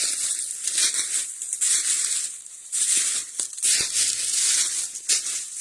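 Footsteps crunching and rustling through dry leaf litter and brush, in uneven bursts as someone walks through a briar thicket.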